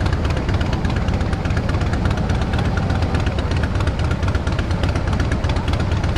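Motorcycle engine running steadily, loud and unbroken, with its strongest sound low down.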